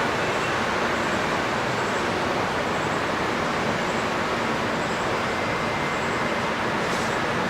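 Steady rushing of flowing water, with faint high chirps repeating about once a second.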